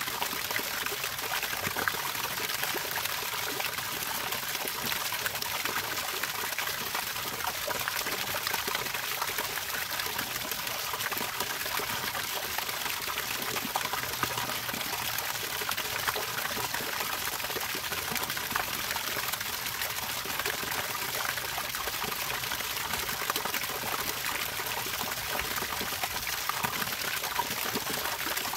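Running water trickling and splashing steadily, with a fine, even bubbling texture.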